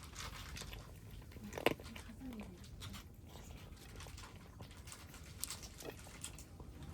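Kittens crunching dry cat food, with small scattered clicks and one sharp knock about a second and a half in.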